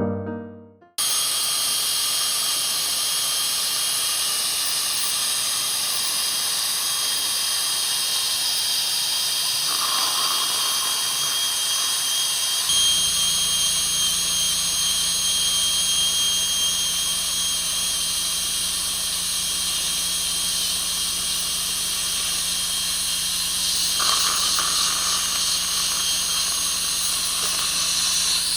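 Dental equipment running steadily: a continuous hiss with a thin, high whine on top, typical of a high-speed air-turbine handpiece with its water spray and suction. A low hum joins about halfway through.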